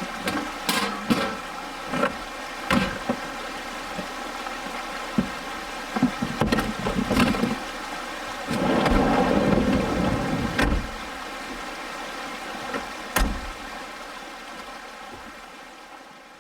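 Camp kitchen gear being packed away: scattered clicks and knocks of utensils and cookware, with a louder rustling clatter about halfway through, over the steady rush of a brook. The sound fades out at the end.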